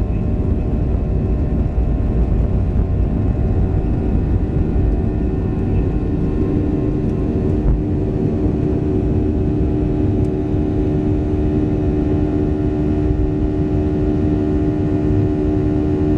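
Boeing 737-700 cabin noise from inside the cabin: a steady rumble with the hum of its CFM56-7B engines. About six seconds in, another steady engine tone joins and holds.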